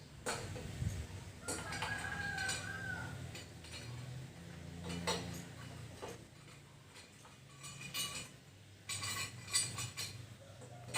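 A rooster crows once, about two seconds in, over scattered clinks and knocks of things being handled.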